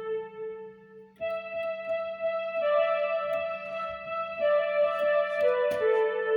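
Synthesizer melody played with a string-orchestra voice: a held note fades out, and after about a second's pause a new phrase of long sustained notes begins over a soft accompaniment beat.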